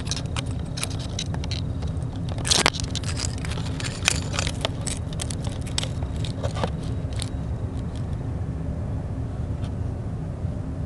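Nissan 350Z's 3.5-litre V6 idling steadily through an aftermarket dual exhaust with an X-pipe, a low even rumble. A scatter of sharp clicks and scrapes sounds over it for the first seven seconds, the loudest about two and a half seconds in.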